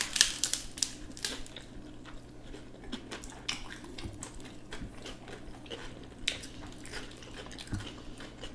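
A person chewing food close to the microphone, with many small sharp mouth clicks, busiest in the first second or so.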